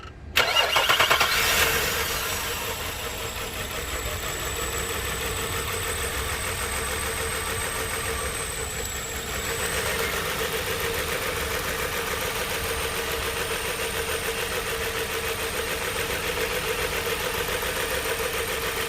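Nissan car engine starting just after the start, running louder for about two seconds, then settling into a steady idle, with a thin high whine above it.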